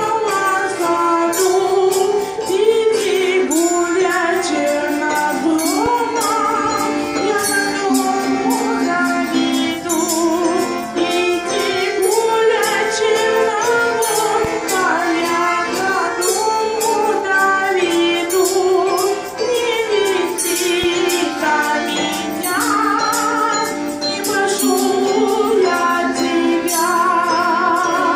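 A Russian folk song sung by a children's ensemble, with instrumental accompaniment and a steady percussion beat.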